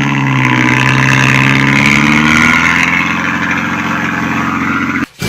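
Truck engine running hard under load as the truck pulls through mud. Its pitch rises slightly and then holds steady, with a rushing noise above it, and the sound cuts off suddenly near the end.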